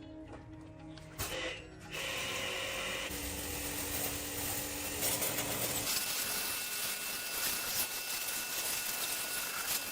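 Harsh, noisy workshop tool sound starting about a second in. It changes character several times, like short stretches of work cut together.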